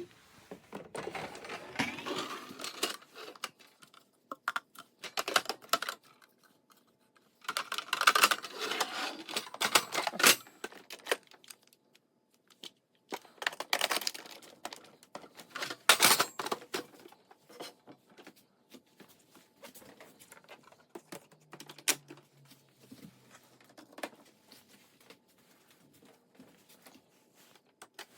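Irregular clicking and clattering, with a few denser bursts of it and single sharp clicks between them.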